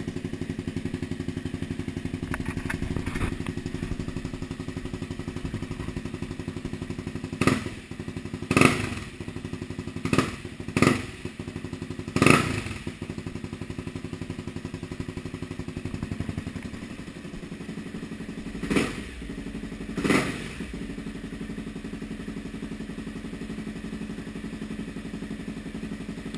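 Honda CBR250R's single-cylinder engine idling steadily through an aftermarket XXD exhaust, blipped with short throttle revs: five quick ones about a third of the way in, then two more spaced out a little past the middle.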